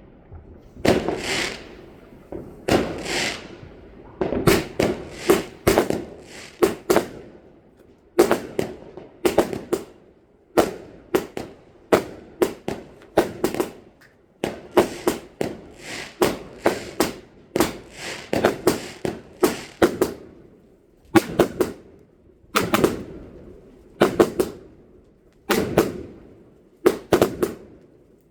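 Fireworks going off: sharp bangs and crackling in quick clusters, several a second, each bang trailing off with an echo.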